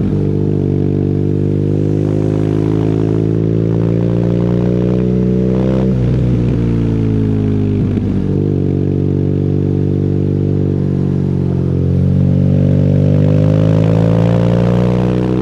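BMW R nineT's boxer twin through an Akrapovic exhaust under way: revs slowly easing off, two gear changes around the middle, then the engine pulls harder and rises in pitch as the bike accelerates near the end.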